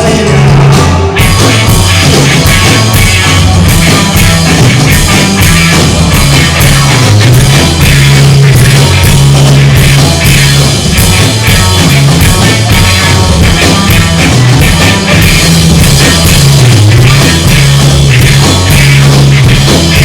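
Rock band playing, with a drum kit keeping a steady beat under a prominent moving bass line, loud and continuous.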